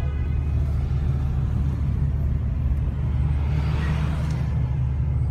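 Car engine idling with a deep, steady rumble, heard from inside the cabin while stopped in traffic. A faint rush of passing traffic rises and fades about four seconds in.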